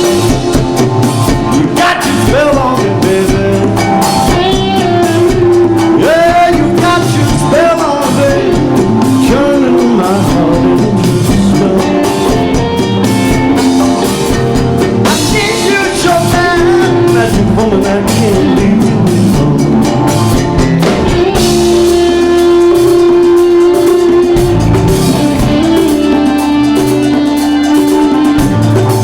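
Live rock band playing: drum kit and guitar under bending lead lines, with long held Hammond organ notes from about two-thirds of the way through.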